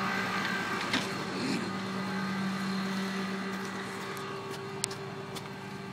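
Truck engine idling with a steady, even hum that fades slightly, with a few light clicks over it.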